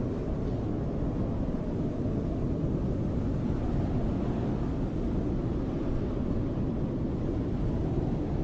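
Snowstorm wind blowing as a steady, deep rush, with no gusts or breaks.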